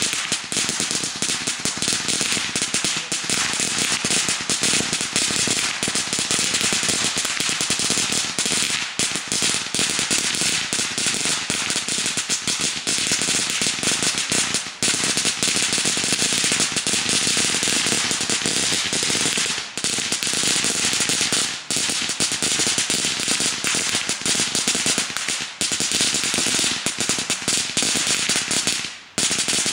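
A long roll of firecrackers going off in one unbroken, rapid crackle of sharp pops, with a brief break near the end.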